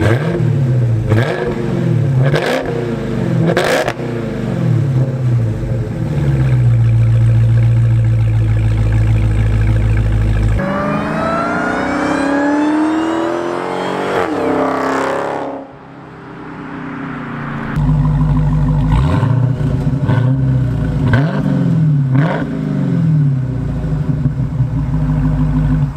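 Dodge Charger Hellcat's supercharged 6.2 L HEMI V8 on its factory exhaust, revved in repeated blips that rise and fall and held steady for a few seconds. About 10 s in comes a long rise in pitch under acceleration that drops away sharply about 15 s in, and after about 18 s the quick rev blips start again.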